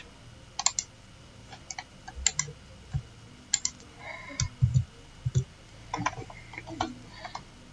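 Irregular, scattered clicks of a computer mouse and keyboard while a document is being edited, with a few soft low thumps about halfway through.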